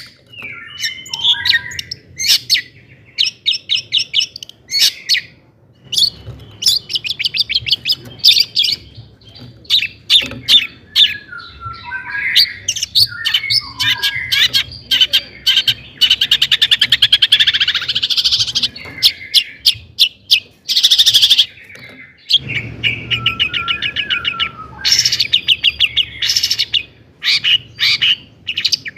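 Long-tailed shrike (cendet) singing hard and continuously. Its song runs as fast ticking trills and harsh chattering notes, mixed with warbled gliding phrases, broken by short pauses.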